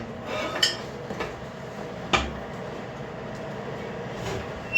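Steel plates of an excavator bucket clanking and scraping against a metal work table as they are forced into position, with one sharp metal knock about two seconds in.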